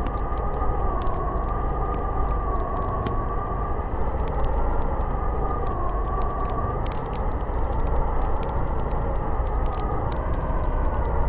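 Snowstorm wind blowing steadily with a low rumble and a howling whistle that slowly wavers up and down in pitch, with scattered faint ticks over it.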